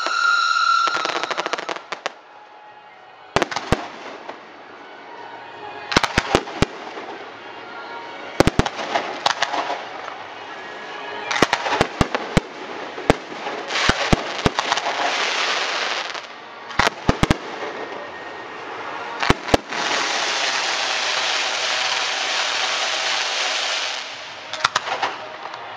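Aerial fireworks going off: clusters of sharp, loud bangs with long stretches of dense crackling, the longest from about 20 to 24 seconds in. A whistle falling in pitch fades out in the first second.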